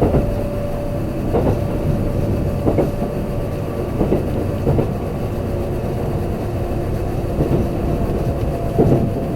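Kintetsu limited express train running at speed, heard from inside the passenger car: a steady rumble with a clack of the wheels over rail joints every second or so, and a steady motor hum underneath.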